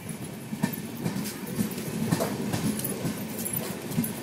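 Passenger coaches of the Baghyanagar Express rolling slowly past with a low rumble, the wheels giving irregular clicks and knocks over the rail joints.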